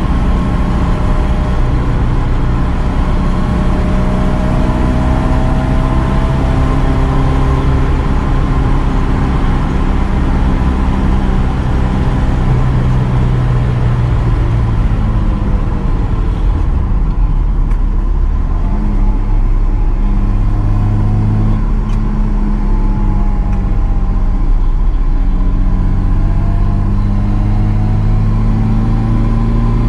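Car engine running steadily, its pitch rising and falling slowly with no sudden impacts.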